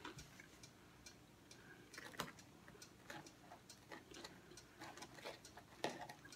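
Faint, irregular crunches and clicks of someone chewing crispy fried popcorn chicken with her mouth closed, with small touches of fingers picking pieces off the plate.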